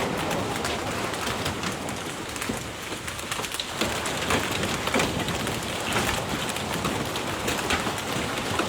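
Heavy rain falling steadily, with many sharp drop strikes on hard surfaces.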